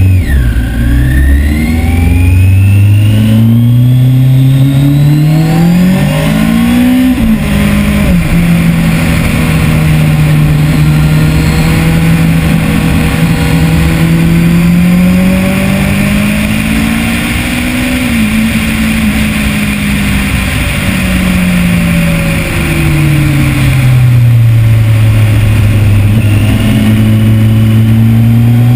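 2010 Kawasaki ZX-10R's inline-four engine heard from on board at speed, its pitch climbing, dropping sharply about seven seconds in, holding, rising again and falling, then climbing once more near the end, with a steady rush of wind over it.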